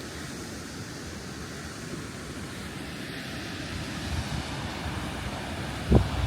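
Steady rushing of river water at a waterfall, with wind buffeting the microphone in low gusts that grow stronger in the second half and peak in one sharp thump near the end.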